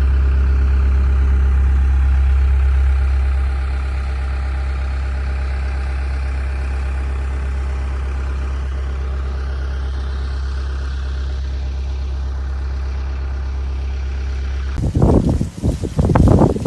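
A large vehicle engine idling steadily, a deep even hum that drops slightly in level after about three seconds. Near the end it cuts abruptly to gusts of wind buffeting the microphone.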